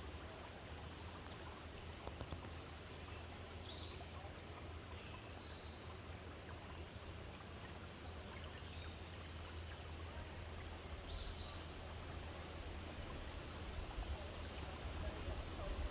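River water flowing with a steady rush, with a few short, high bird chirps scattered through it.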